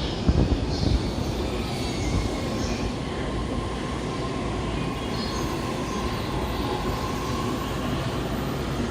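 An electric train running through the station on a nearby track: a steady rumble of wheels on rail with a faint, steady high squeal over it.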